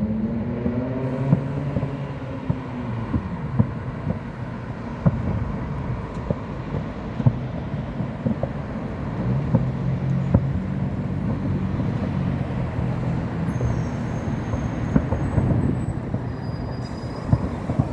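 Scattered sharp bangs of fireworks going off at irregular intervals, over a steady motor hum whose pitch swells and falls over the first few seconds, like a passing vehicle.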